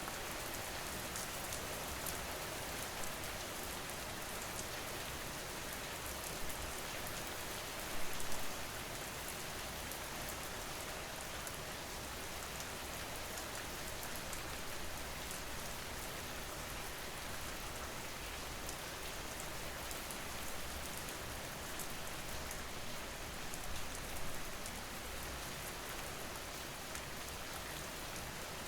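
Steady rain falling, an even hiss with scattered drop ticks, with a brief louder spell about eight seconds in.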